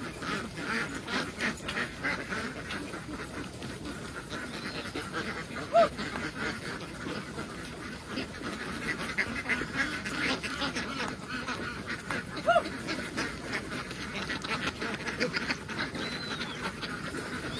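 A large flock of domestic ducks quacking all at once in a dense, continuous chatter. Two short, louder calls stand out, about six and about twelve seconds in.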